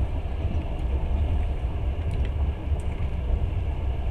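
Steady low rumble of a long-distance passenger train running along the line, heard from inside the carriage, with a few faint ticks about two to three seconds in.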